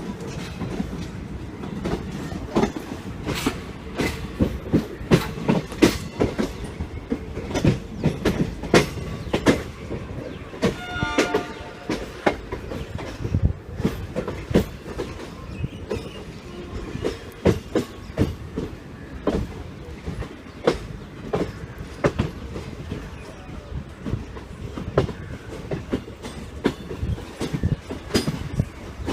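Express passenger train heard from on board, its wheels rumbling and clattering over rail joints and points in irregular sharp clicks and knocks. About 11 s in, a horn sounds briefly for about a second.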